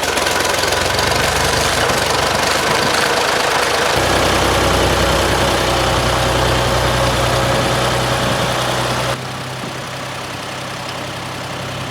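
Old farm tractor engine running. Its low note shifts about four seconds in, and about nine seconds in a loud rushing layer over it drops away, leaving a steadier, quieter engine sound.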